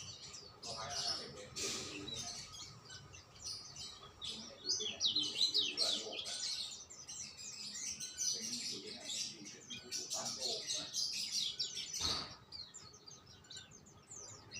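Songbirds chirping and twittering in quick, overlapping high calls.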